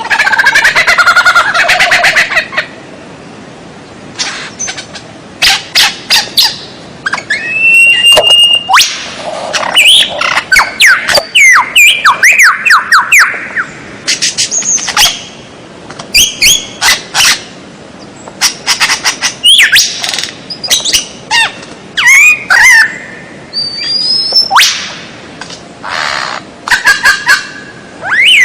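Songbird song: a dense chattering burst at the start, then a long run of loud, varied whistles, up- and down-slurred notes and quick trills, broken by short pauses.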